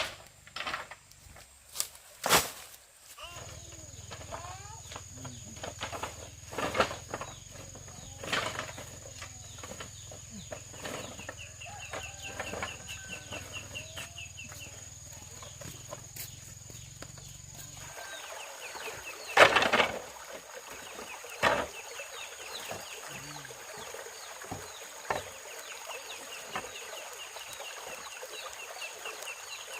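Chickens clucking, with a few sharp knocks, the loudest near the start and about two-thirds of the way through.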